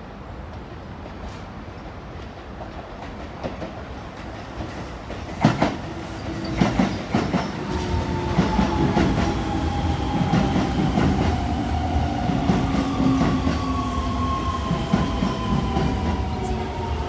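Keio Takaosan-go electric train running over the flat junction and turnouts at Kitano station, its wheels clattering loudly over the crossing's rail gaps, starting with sharp clacks about five seconds in. The clacks give way to a steady rumble with irregular wheel knocks and a motor whine that slowly falls in pitch.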